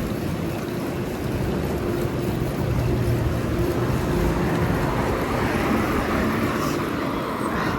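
Steady city street traffic noise with a low rumble, heard from a moving bicycle, swelling a little in the second half.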